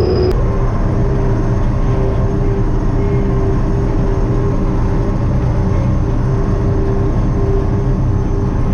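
Kirovets K-700A tractor's diesel engine running steadily, with a steady humming tone over a low rumble and a faint high whine above it.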